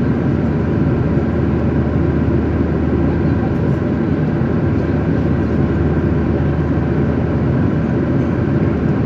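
Steady drone of an airliner's cabin in flight: engine and airflow noise, strongest in the low range, with faint steady tones above it.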